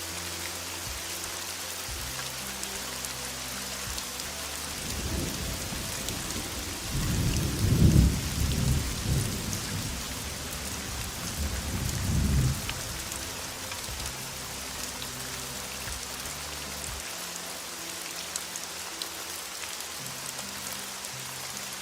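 Heavy rain falling steadily, with a long roll of thunder through the middle that swells twice before dying away.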